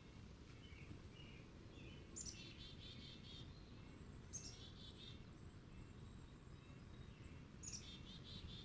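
A songbird singing three short phrases a few seconds apart, each a sharp high note followed by a fast trill of repeated notes, over a faint low background hum.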